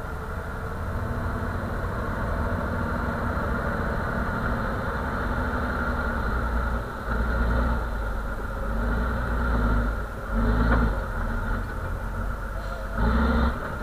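A vehicle engine running steadily, with several short, louder bursts of revving about seven, ten and thirteen seconds in.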